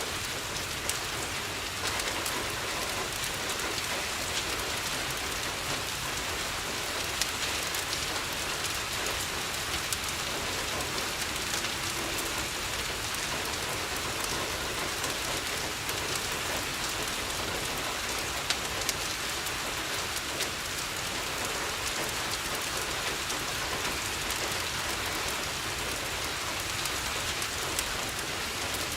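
Steady rain falling on a window, an even hiss with scattered sharp clicks.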